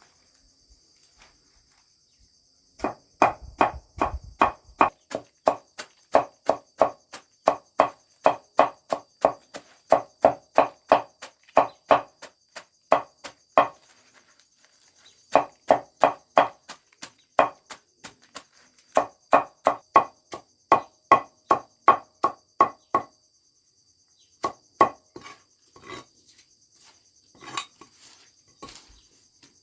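A hand tool striking repeatedly, about three sharp, ringing blows a second, in several runs with short breaks and a few scattered blows near the end. Insects chirr steadily in the background.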